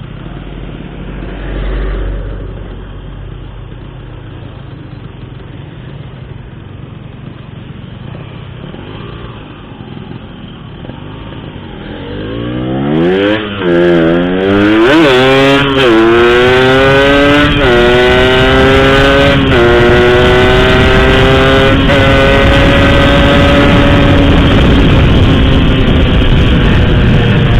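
Motorcycle engine with an Altech C17 aftermarket exhaust, running low and quiet for about twelve seconds. It then accelerates hard, its note climbing and dropping back at each of several upshifts, and settles into a steady cruise.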